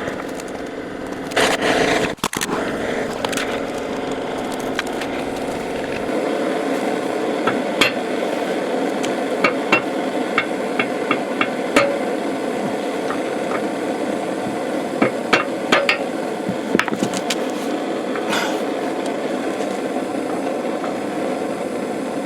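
Scattered hammer taps and knocks on metal as the old handle is worked out of the workbench's brake lever, with a louder clatter about two seconds in, over a steady background noise.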